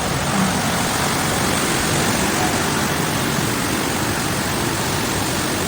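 A loud, steady rush of water, the sound of heavy rain and floodwater.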